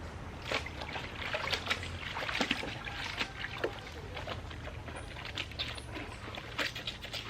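Clothes being hand-washed in a basin of water: irregular splashing and sloshing as the fabric is worked in the water.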